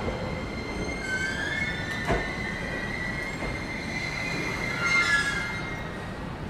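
Electric commuter train on the JR Tokaido Line braking to a stop at a platform. Its brakes and wheels squeal in several high, steady tones over the rumble of the cars, with a single sharp clank about two seconds in.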